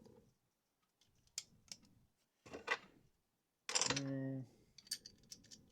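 Plastic Lego bricks clicking and rattling as they are handled, with a short wordless vocal sound from the builder about four seconds in.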